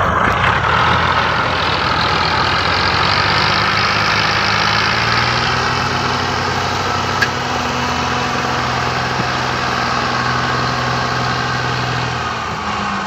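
Tractor's diesel engine running hard under load, hauling a loaded trolley out of soft sand where it had got stuck. Its note holds steady and eases near the end.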